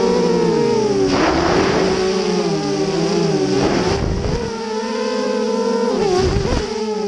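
FPV quadcopter's electric motors and propellers whining steadily, the pitch dropping and climbing back with throttle changes about three times, with a short rush of air at each dip.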